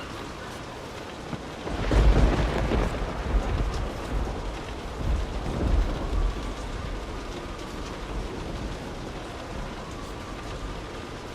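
Steady rain with a thunderclap about two seconds in, followed by a second swell of thunder and a rumble that dies away, leaving the rain hiss.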